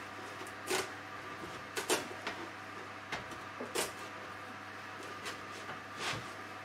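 Kitchen knife cutting through the firm rind of a pumpkin: a handful of short crunches and knocks as the blade works through and meets the cutting board.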